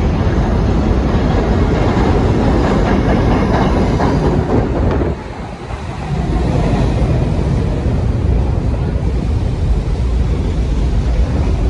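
New York City subway train running on the rails: a loud, steady rumble with wheel clatter, briefly quieter about five seconds in.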